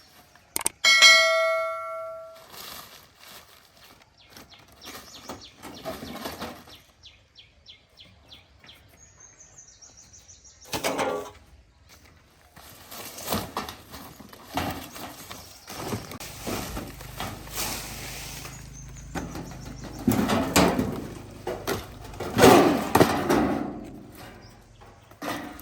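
Steel parts being handled during a workshop repair: a metal part is struck or set down about a second in and rings for over a second, followed by irregular knocks, scraping and clattering of metal.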